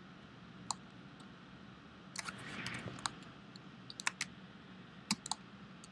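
Scattered clicks of a computer mouse and keyboard, single and in quick pairs, over a low room hum.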